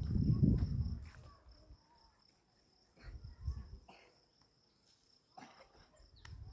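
Insects, crickets by their sound, chirping in a steady, high, pulsing trill, with a low rumble over the first second.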